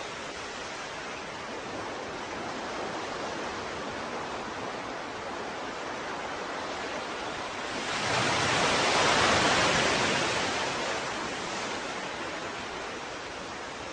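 Ocean surf: a steady hiss of waves, with one wave breaking louder about eight seconds in and washing back out over the next few seconds.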